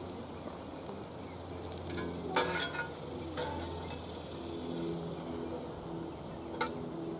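Venison and pork sausage sizzling in a skillet on an outdoor grill, with three metal clinks of tongs and spatula against the pan, the loudest about two and a half seconds in.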